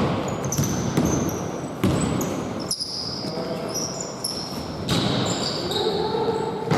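Basketball game on an indoor court: the ball bounces sharply on the floor a few times, and sneakers chirp in many short, high squeaks over a background murmur of voices.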